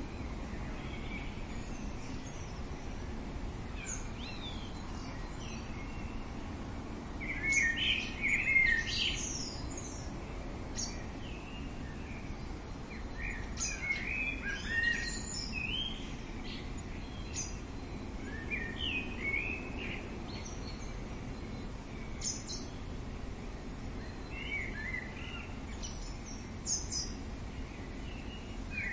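Wild birds calling and singing in short chirping phrases over steady outdoor background noise, with the loudest bursts of calls about 8 and 15 seconds in.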